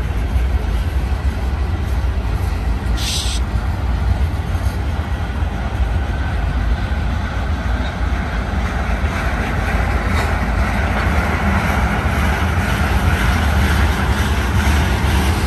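Freight train of tank cars and covered hoppers rolling past, its wheels on the rails making a steady rumble. One short high squeal comes about three seconds in.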